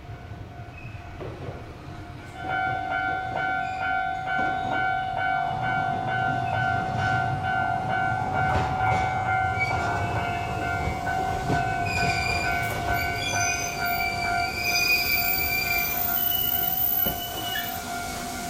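Shizuoka Railway 1000 series two-car electric train pulling into a station and braking to a stop. It gets louder about two seconds in, with a steady high whine from then on, and squealing brakes and wheels in the last few seconds as it slows to a halt.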